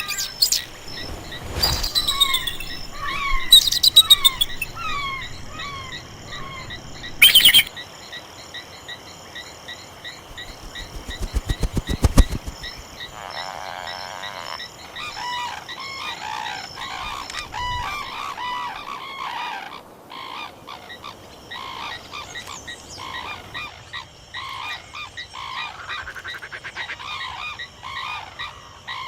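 Wetland chorus of frogs croaking and birds calling, many short repeated calls overlapping. A few loud sharp knocks come in the first eight seconds, and a quick run of clicks about twelve seconds in.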